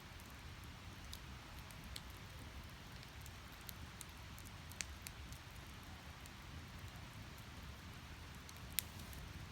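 Firewood burning in an open fire, crackling: a steady soft hiss broken by scattered sharp pops, the loudest one near the end.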